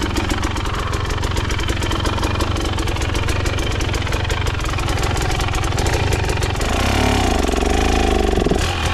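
KTM dirt bike engine idling with an even, rapid beat, then revved up and down for about two seconds near the end.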